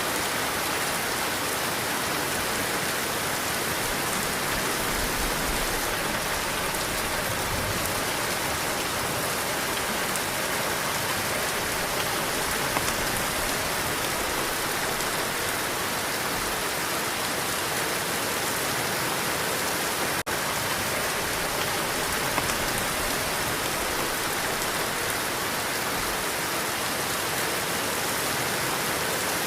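Heavy rain falling steadily in a dense, even hiss, with occasional low gusts of wind underneath. There is a momentary dropout about twenty seconds in.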